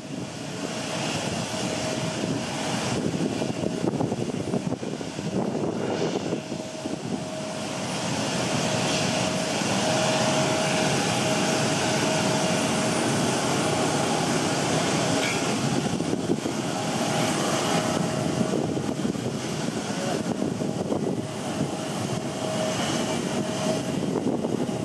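Jet airliner engines running with a steady whine over a rushing roar, growing louder about eight seconds in, mixed with strong wind buffeting the microphone.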